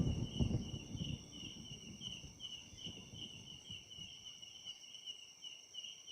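Night insects calling: a high chirp pulsing about three times a second over a steady thin high-pitched whine. A faint crackling rustle in the first second or so fades away.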